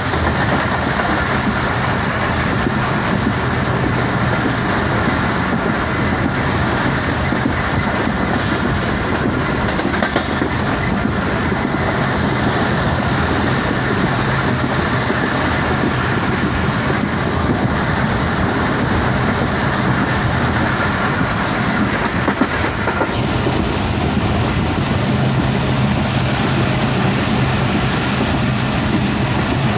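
Passenger train running at speed, heard from inside a carriage: the wheels on the track make a steady, loud running noise. About 23 seconds in, the higher hiss changes in tone.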